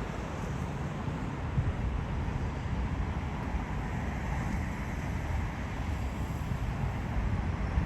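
Wind buffeting the microphone over a steady, even rumble.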